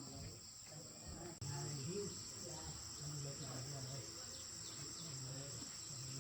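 Steady high-pitched chirring of an insect chorus, likely crickets, with faint voices low underneath. The sound jumps in level suddenly about a second and a half in.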